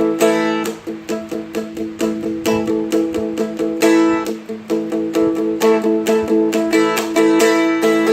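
Seagull Merlin M4 four-string strumstick being flatpicked: a quick run of picked notes over steadily ringing drone strings.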